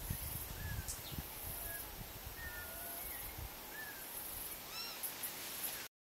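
Birds calling from a tree canopy: scattered short whistled notes and slurred glides, with a louder, richer call of three or four quick notes near the end. Under them is a steady high hiss and, in the first half, a low rumble.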